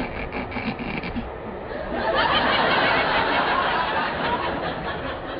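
Studio audience laughter, swelling up about two seconds in and tailing off, over the rumble and clatter of a train.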